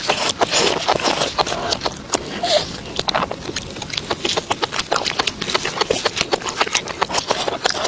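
Crunchy food being chewed close to the microphone: a rapid, irregular run of sharp crunches, several a second.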